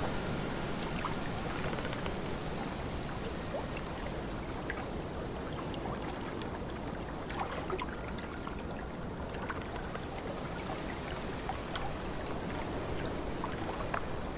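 Lake water lapping and splashing under wind, a steady wash with scattered small drip-like ticks.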